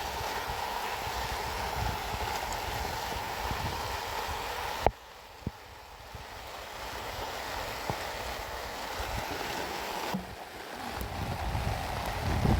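Steady rain with wind buffeting the microphone, broken by a sharp knock about five seconds in, after which the sound is quieter for a few seconds before building again.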